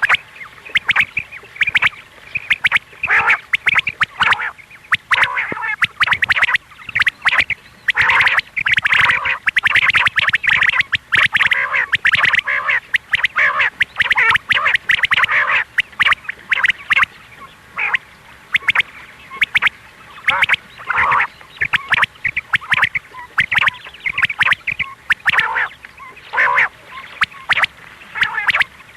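Quail calling over and over in a dense, rapid run of short, harsh notes. It is a recorded quail call of the kind played as a lure in quail hunting.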